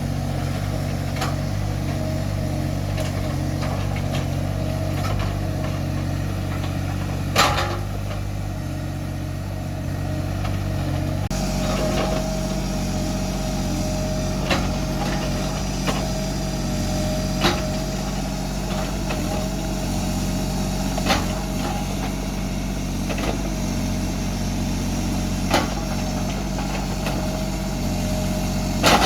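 An engine running steadily, its tone shifting about a third of the way through, with sharp knocks: one loud one about seven seconds in, then one every few seconds.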